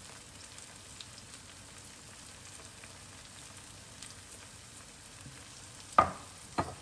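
Onion, tomato and green pepper slices frying gently in oil in a frying pan: a faint, steady sizzle with light crackles. Near the end come two sharp knocks about half a second apart.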